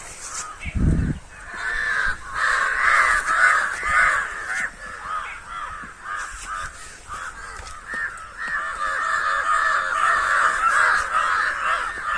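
A crowd of crows cawing over and over, many overlapping calls at once with no let-up. A low thump comes about a second in.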